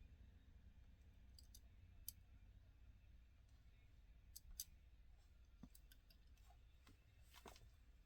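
Near silence with a few faint, scattered light clicks.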